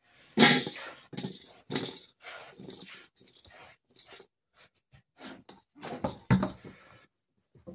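Sliced red chilies being stir-fried in hot flaxseed oil in a wok, sizzling in irregular bursts as they are tossed, loudest just after the start and again about six seconds in.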